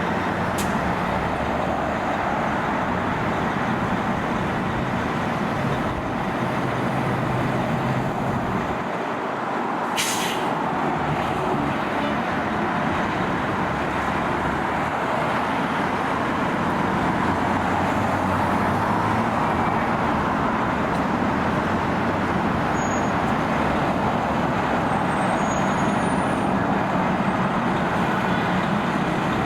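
Fire engine running with a steady engine rumble and road noise, before its siren starts. There is a brief sharp noise about ten seconds in.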